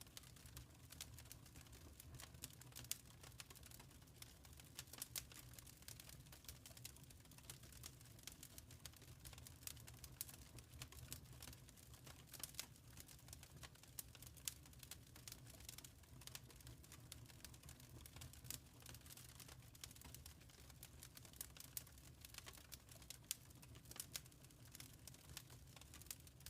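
Faint wood fire crackling: irregular small pops and sharp snaps over a low steady rumble.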